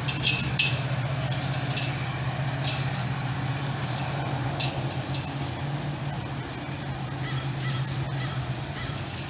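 Caltrain diesel locomotive's steady low drone, with a few short, sharp high-pitched sounds over it in the first half.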